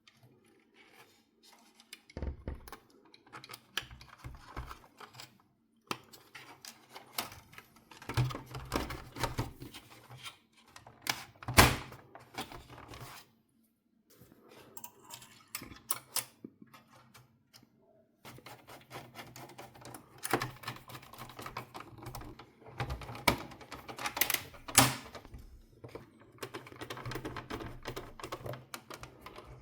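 Rapid, irregular clicking and tapping of small hard plastic and metal parts being handled during hands-on work on a PlayStation 4 console, with a few brief pauses and occasional louder knocks.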